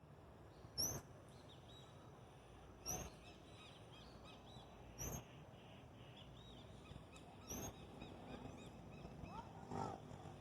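Birds calling: one sharp, high call repeated four times about every two seconds, then a lower call near the end, over soft chirping from other birds.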